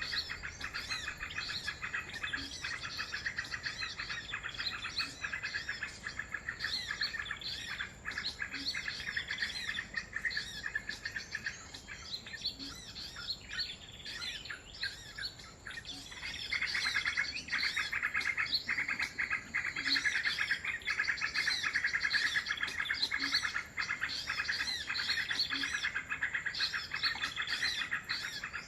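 Dense, continuous chirping and twittering of many small birds, getting louder and busier about sixteen seconds in. A faint low note repeats every couple of seconds underneath.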